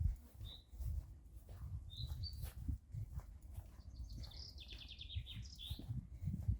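Small songbirds chirping: a few short high chirps, then a quick trill of repeated notes about two-thirds of the way through. Low thuds of footsteps and a low outdoor rumble run underneath.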